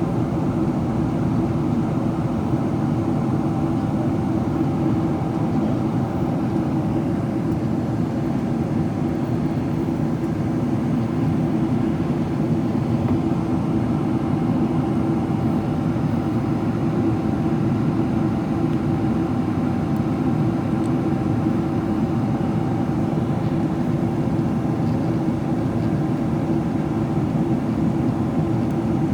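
Steady cabin noise inside a Boeing 777-300ER in descent: airflow over the fuselage and the drone of its GE90 engines, with a faint steady hum riding on it.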